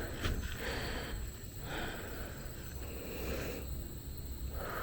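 A woman breathing hard and heavily, in and out about once a second: out of breath after climbing up a tall viewing tower.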